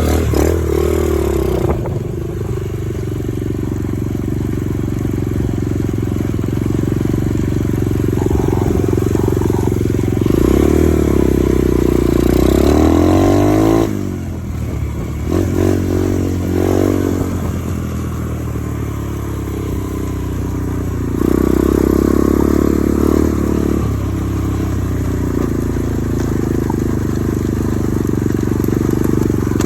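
Dirt bike engine running while riding, its pitch rising and falling as it revs up and eases off several times, with a sudden drop in level about halfway through.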